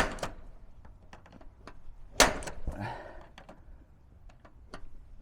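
Knocks and light clatter from a brush seal strip being fitted against a roll-up garage door. A sharp knock comes at the start and a louder one about two seconds in, with scattered small clicks in between.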